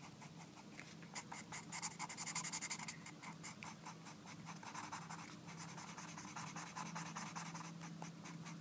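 Marker tip scratching rapidly back and forth on card stock in short strokes, colouring in fur texture, busiest about two seconds in.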